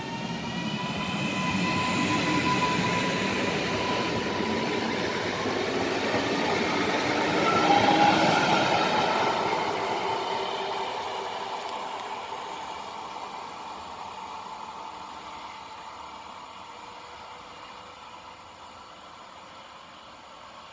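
Newag Impuls EN63A three-car electric multiple unit pulling into the station: wheels running on the rails with a steady electric whine. It is loudest about eight seconds in, then fades away as it draws on and slows.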